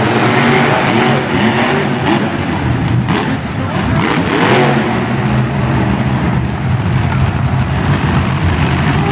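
Monster truck engines running at full throttle and revving hard during a head-to-head race, with a pitch swing of revving about four seconds in.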